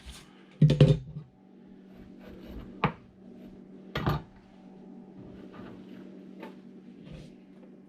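Knife and cabbage knocking on a cutting board: a loud double knock about a second in, sharp single knocks near three and four seconds, then a few lighter taps, over a steady low hum.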